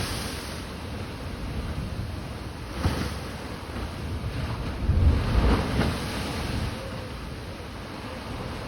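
Rough sea booming: heavy waves breaking in surges over a steady wash of surf, with a short deep boom about a third of the way in and a bigger, longer one just past halfway.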